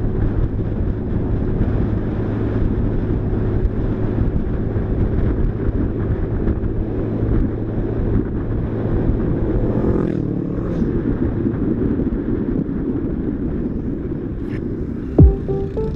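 Motorcycle running on the move, a steady engine hum mixed with wind rushing over the microphone. Music with sharp beats cuts in near the end.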